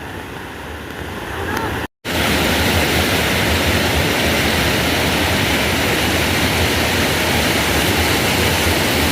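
Heavy rain falling: a steady, loud, even hiss. After a short break about two seconds in, it returns much louder.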